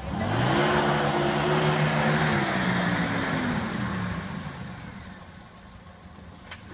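Mercedes-Benz W124 estate car's engine revving up hard as it pulls away, holding high revs for about two seconds with a rushing noise over it, then the revs drop as it eases off and the sound fades.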